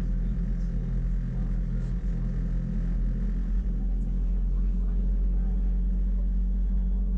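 Wengernalp rack-railway train running uphill, heard from inside the carriage: a steady low rumble with an even motor and gear hum.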